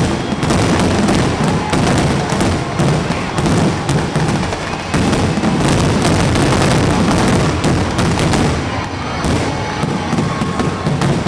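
Fireworks grand finale: a rapid, continuous barrage of aerial shell bursts and crackle, the bangs running together, easing slightly near the end.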